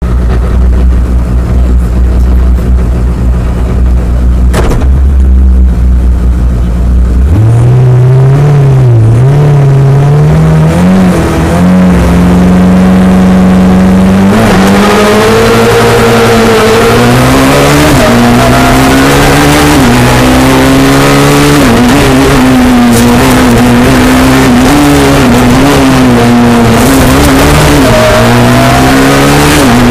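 Rally car engine heard from inside the cockpit: a low idle, then revved and held high at the start line from about seven seconds in. About fourteen seconds in the car pulls away hard, the engine running at high revs that rise and dip with the throttle, with tyre and road noise added.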